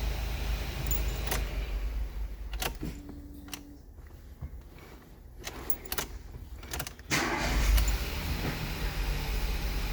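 Keys jangling and a few sharp clicks, then a car engine starting about seven seconds in and running with a low rumble.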